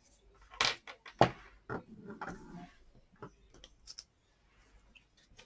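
Cardstock being handled and pressed down on a craft desk: a series of short paper rustles and sharp taps, the loudest a little over a second in.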